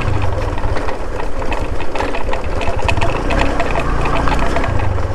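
Motorcycle engine running steadily on the move, a low even hum with rapid firing pulses, under a haze of road and wind noise.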